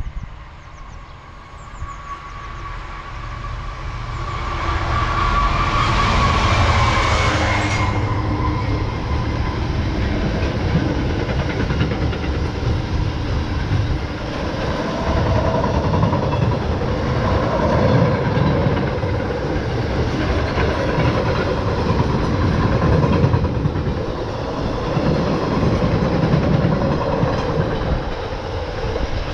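A train passing at speed: the sound builds over the first few seconds to a loud rush with a slightly falling tone, and the high hiss cuts off suddenly about eight seconds in. A steady loud rumble of wheels on rails then carries on for the rest.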